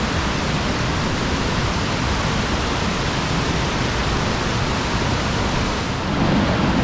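Snowmelt-swollen mountain creek rushing past, a loud, steady wash of raging white water.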